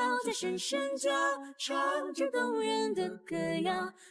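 A female voice singing a tune unaccompanied, in held, steady notes.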